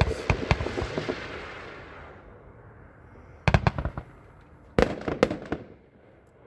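Multi-shot consumer firework cake firing. A burst of sharp cracks over a crackling hiss fades over about two seconds, then two more clusters of loud bangs come halfway through, a little over a second apart.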